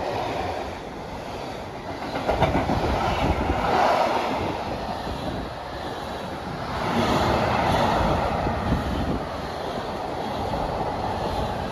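A train running on the track, its wheels clattering rhythmically over the rails.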